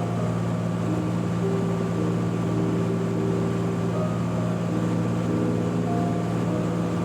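Steady drone of a Cessna T182T's turbocharged six-cylinder Lycoming engine and propeller in cruise power on approach, heard from inside the cabin. It holds an even pitch and loudness throughout.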